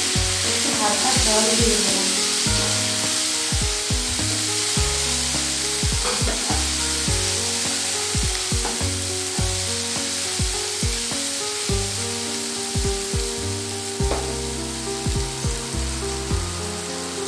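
Onion and spice masala sizzling in oil in a nonstick kadai, with a spatula stirring and knocking against the pan many times. Background music with held notes plays under it.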